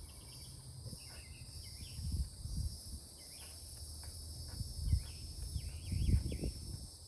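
Steady high-pitched chorus of insects such as crickets, with a few short bird chirps about a second in and again near the end. Several low thumps cut through, the loudest about six seconds in.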